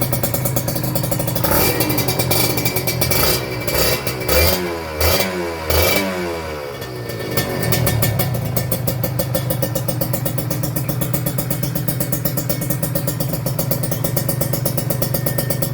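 Kawasaki Ninja RR's 150 cc two-stroke single running through an SCR1 Racing aftermarket galvanized-steel exhaust. It idles, is revved in a series of quick throttle blips from about two to seven seconds in, then settles back to a steady idle.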